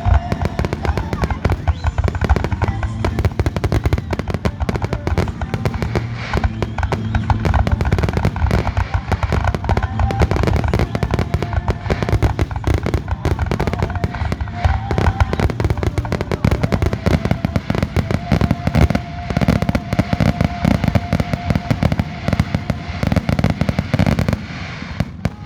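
Aerial fireworks show: a dense, unbroken barrage of shell bursts and crackling, with music playing underneath. The barrage eases off about a second before the end.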